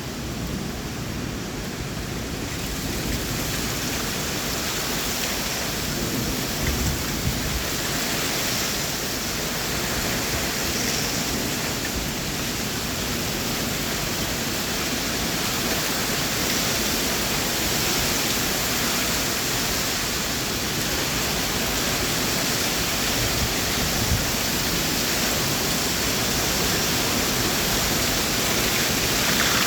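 Heavy rain falling in a strong wind: a steady, dense hiss that thickens about two seconds in, with low buffeting.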